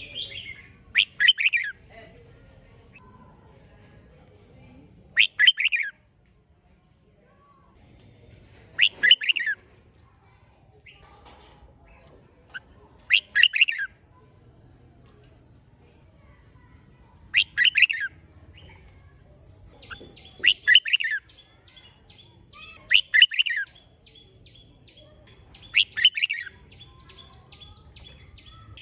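Red-whiskered bulbul singing: short, loud, warbled phrases repeated about every four seconds. About two-thirds of the way in, a fast, high ticking chatter joins underneath the phrases.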